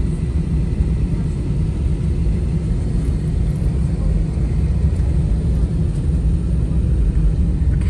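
Steady low rumble of an airliner heard from inside the passenger cabin, with no distinct events.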